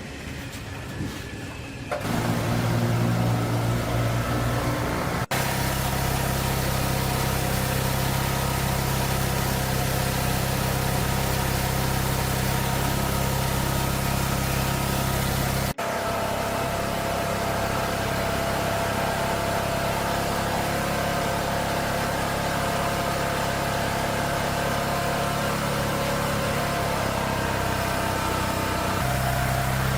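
A small electric motor running steadily, a low hum with a rushing hiss over it. It starts about two seconds in and shifts slightly in pitch at sudden breaks about five and sixteen seconds in.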